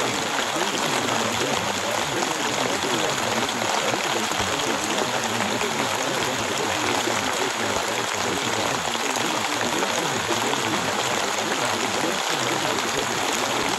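Recorded rain: a steady, even hiss of falling rain that never lets up.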